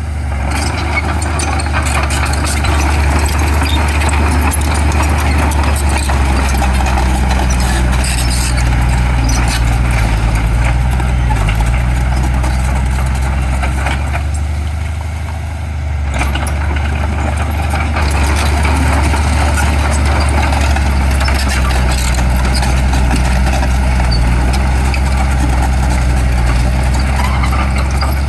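Heavy diesel engine of earthmoving machinery running steadily under work, easing off briefly about halfway through, then building again.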